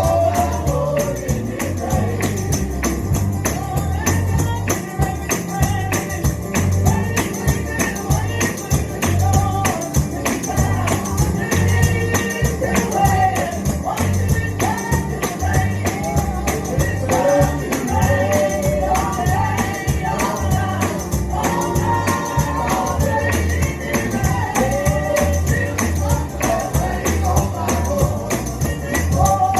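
Live gospel music: a singer's voice over a tambourine shaken in a steady rhythm, with a regular low beat underneath.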